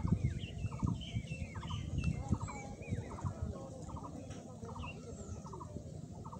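Birds chirping, with one short rapid trill-like call repeating about every half second to second, over a low rumble.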